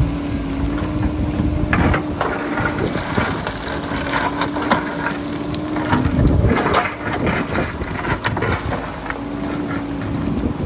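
JCB backhoe loader working with its diesel engine at a steady drone while the bucket scrapes and crunches through rock and soil in repeated cracking strokes. Wind buffets the microphone.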